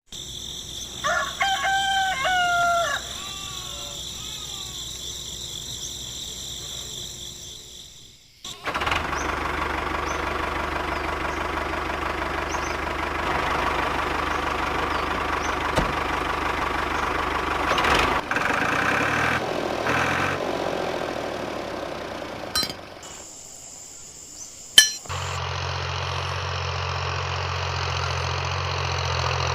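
A rooster crows once about a second in. After several seconds a small electric motor starts running with a steady buzzing hum, which changes character a few times.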